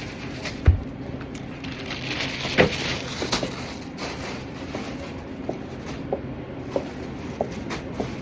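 Boot heels clicking on a hard floor in a steady walking rhythm, one step about every half second, over the second half. Before that, a few knocks and a crackling of handled items over a steady background hum.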